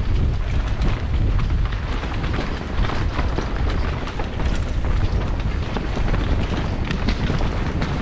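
Mountain bike riding fast down a rough trail: wind buffeting the microphone over a steady rumble of tyres on dirt and rocks, with the bike rattling and clattering throughout.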